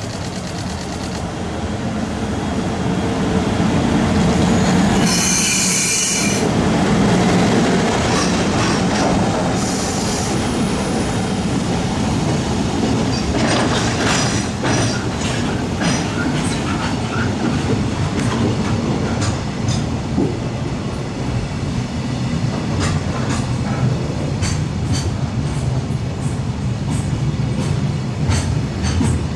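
Container freight train approaching and running past close by: a rising rumble, a brief shrill high tone about five to six seconds in, then the steady rumble of the wagons with repeated clicks of wheels over rail joints.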